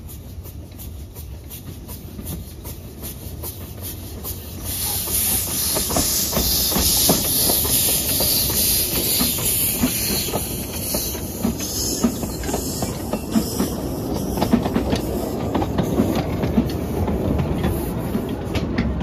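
Tourist train running, with many small clicks and rattles over a steady noise, and a hiss that grows louder about five seconds in.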